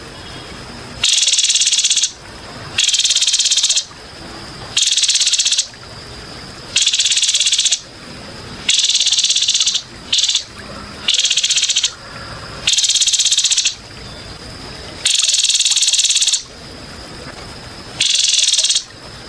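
An insect calling in a repeated high, rapidly pulsed buzz, each about a second long and coming every two seconds or so, over a steady high whine. It is played as a masteran recording for songbirds to copy.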